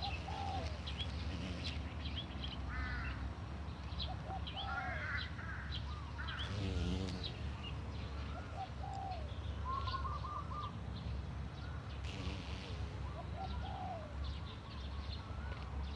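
Several birds calling and chirping, short gliding calls repeating and overlapping, with fine high chirps, over a steady low rumble.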